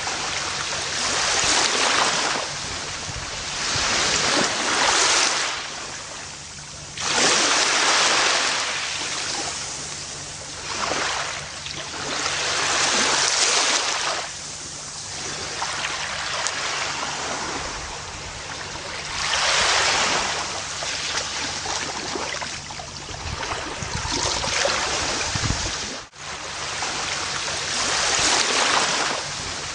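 Gentle ocean waves breaking and washing up on a beach, each surge swelling and fading every few seconds. The sound cuts out for an instant near the end.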